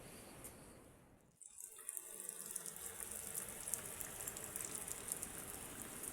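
Falling water splashing in a dense, steady hiss with fine crackle, starting abruptly about a second and a half in after a brief lull.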